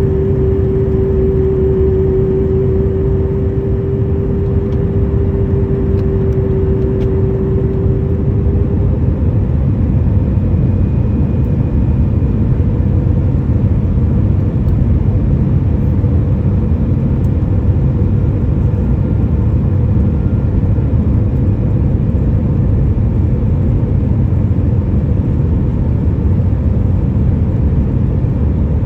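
Cabin noise inside a Boeing 737 in flight: the steady rush of the engines and airflow, with a steady hum on top that stops about nine seconds in.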